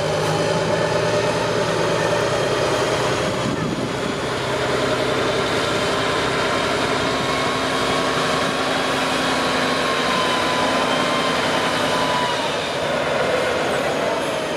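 A heavy off-road truck's diesel engine running steadily at low revs, with a thin whine rising above it for a few seconds around the middle.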